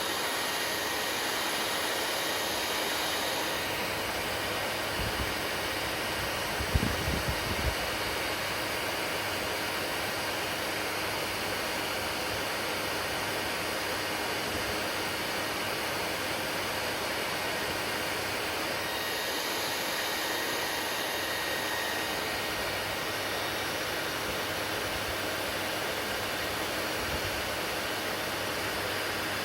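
Hair dryer running steadily: an even rush of blown air with a faint motor whine. A few low bumps come about five to eight seconds in.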